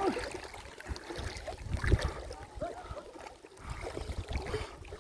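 Shallow muddy water sloshing and splashing in uneven bursts, with the loudest splash about two seconds in.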